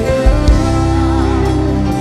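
Live gospel praise-and-worship music: sustained keyboard or guitar chords over a bass line, with drum hits and a wavering melody line in the middle.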